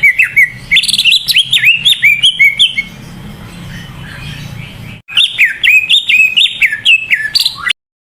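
Green leafbird (cucak ijo) singing vigorously: rapid strings of loud, slurred whistled notes in two bursts about two seconds apart, cutting off suddenly near the end.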